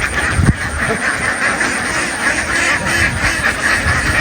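A large flock of domestic ducks quacking continuously, many calls overlapping into a steady din, with a dull thump about half a second in.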